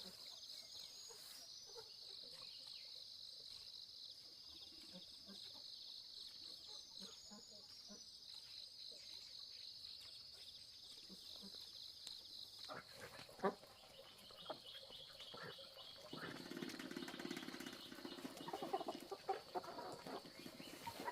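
Faint outdoor ambience of insects chirring steadily with small bird chirps over it; about thirteen seconds in the chirring drops away, a few knocks sound, and a pitched animal-like call fills the last few seconds.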